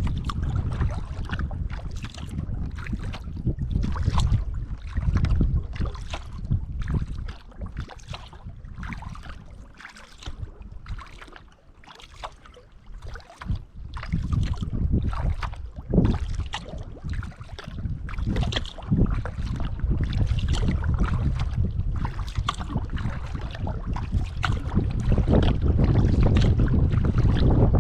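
Kayak paddle strokes dipping and splashing in the water, about one a second, with wind rumbling on the microphone, heavier near the end.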